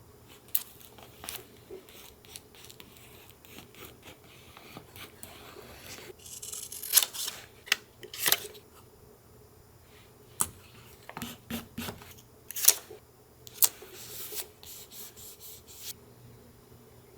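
Scissors cutting paper and paper being handled for collage. Scattered sharp snips and clicks, with a longer stretch of rasping cutting or rubbing about six to eight seconds in.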